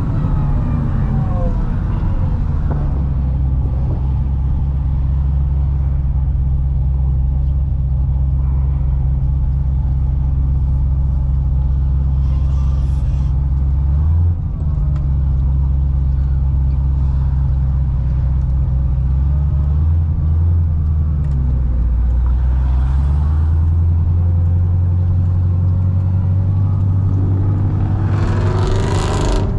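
Supercharged 6.2-litre V8 of a modified C6 Corvette ZR1 cruising at steady revs with a deep, even drone. The level dips briefly about halfway, then the revs climb near the end as the car accelerates.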